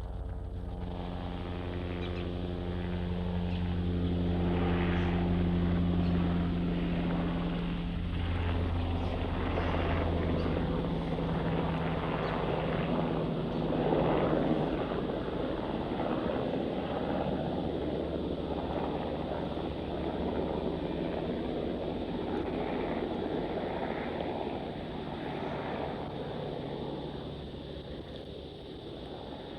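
An aircraft passing over: a steady low engine and propeller drone with a rushing noise that builds to its loudest about halfway through, then slowly fades as it moves away.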